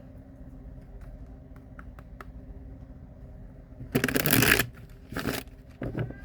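Tarot cards being shuffled by hand: faint clicks, then a loud burst of shuffling about four seconds in, a shorter one a second later and a smaller one near the end.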